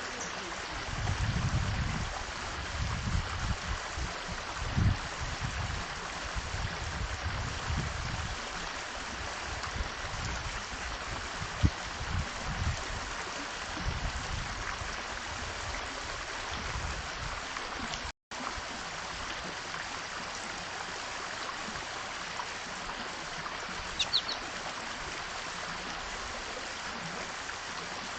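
Steady rushing outdoor background noise, much like running water, with uneven low rumbles through the first half. A small bird gives a brief high chirp about three-quarters of the way through, and the sound cuts out for an instant about two-thirds of the way through.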